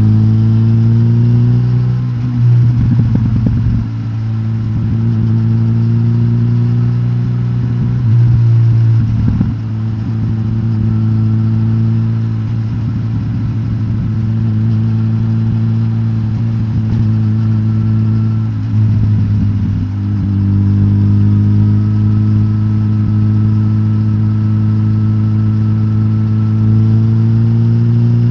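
Suzuki GSX-S1000GT's inline-four engine, de-catted on the stock exhaust, running at steady mid revs with the pitch slowly creeping up. Three times the note briefly dips and roughens as the throttle changes, then settles again.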